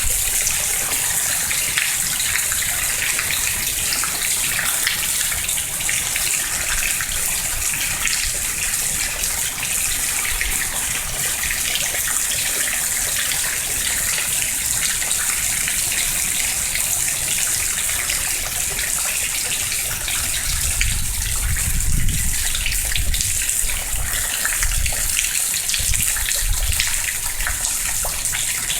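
Steady heavy rain falling and splashing, with low rumbles of wind gusting on the microphone about twenty seconds in and again a few seconds later.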